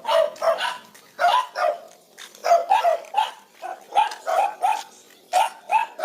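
A dog barking repeatedly: short, sharp barks in quick runs of two or three, about a dozen in all.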